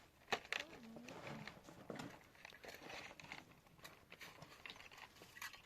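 Faint rustling with scattered light clicks and knocks, a few sharper ones about a third of a second in, near the two-second mark and just before the end.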